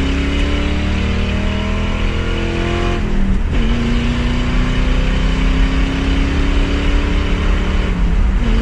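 Ford Mustang GT's 4.6-litre two-valve V8 with the mufflers deleted, pulling hard through the gears. The engine note climbs, drops at an upshift about three seconds in, then climbs again to another shift near the end.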